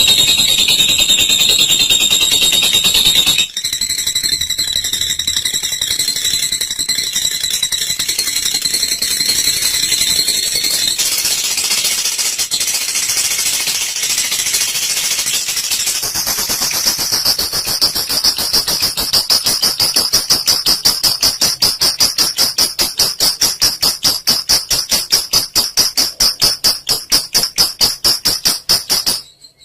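Olive lovebird giving its long 'ngekek' song: an unbroken, high-pitched chattering trill. About halfway through it shifts higher into a rapid, even pulsing rattle, then stops abruptly near the end.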